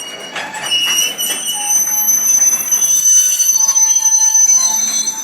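Freight train's steel wheels squealing loudly against the rails: a high-pitched squeal of several steady tones held together, with a few knocks and clanks in the first second or so.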